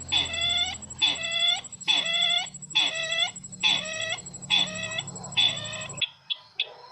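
Sisintar ladang bird call, the lure sound used in bird trapping: seven short calls, each dropping in pitch, repeated about once a second. They stop about six seconds in, followed by a few brief ticks.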